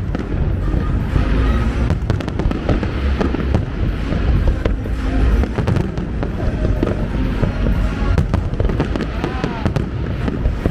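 Fireworks going off in rapid, overlapping succession: many sharp bangs and crackles over a continuous low booming rumble, with voices in the background.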